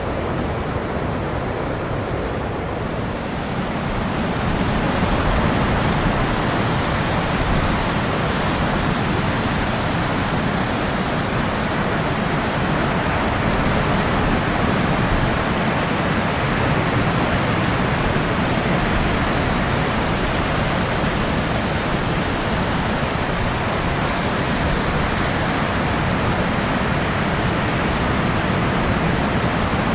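Ocean waves washing onto a tropical beach: a continuous rushing surf that swells louder about four seconds in and then stays steady.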